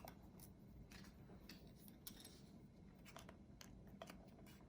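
Faint, scattered small clicks and light scrapes of a precision screwdriver and its bits being handled, over near-silent room tone.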